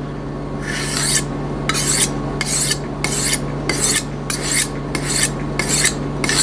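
Carbon-steel chef knife blade drawn heel to tip across a sharpening stone, with an angle-guide clip on the spine: about ten short rasping strokes, roughly two a second, starting under a second in. A steady low hum runs underneath.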